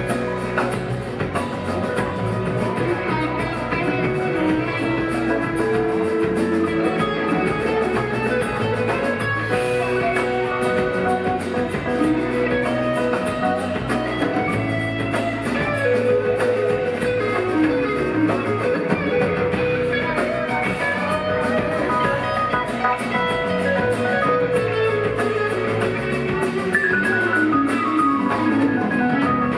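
Live rock band playing an instrumental passage: electric guitar lead lines over bass and a drum kit.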